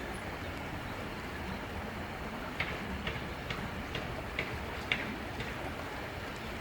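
A run of about seven light, evenly spaced ticks, a little over two a second, through the middle, over a steady background noise.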